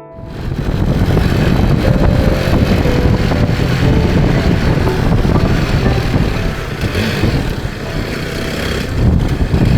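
Motorcycle on the move: loud, steady riding noise that cuts in suddenly and is heaviest in the bass.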